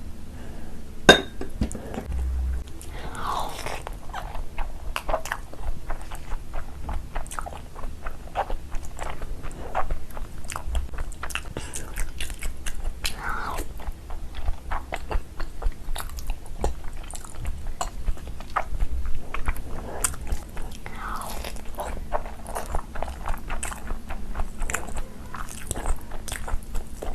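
Close-miked eating sounds of someone chewing a mouthful of food, with many small wet, crunchy clicks. There is a sharp click about a second in, and a few short sounds that slide down in pitch.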